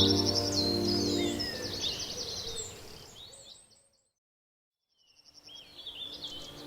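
Birdsong of many quick chirps and trills over a held music chord that fades away. Past the middle the sound drops out completely for about a second and a half, then the birdsong fades back in.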